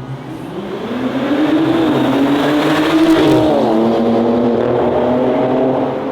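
Car engine accelerating hard: its note climbs steadily, drops sharply at a gear change a little over three seconds in, then holds and slowly fades.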